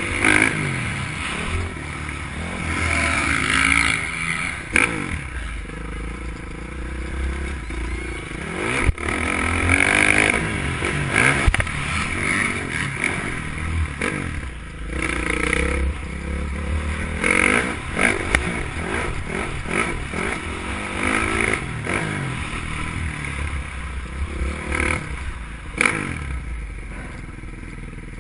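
Motocross bike engine heard close up from an onboard camera, revving up and falling off again and again as the rider works it over jumps and through turns. It drops to lower revs and quietens a little near the end.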